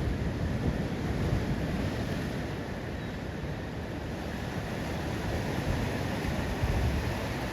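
Ocean surf washing in, a steady rushing noise, with wind buffeting the microphone.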